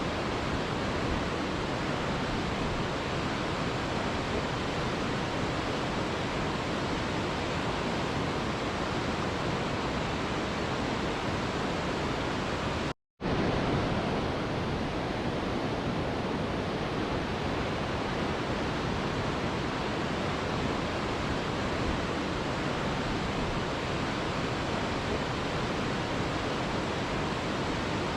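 Mountain river rushing steadily, an even roar of water with no birds or music. The sound cuts out completely for a fraction of a second about halfway through, then resumes unchanged.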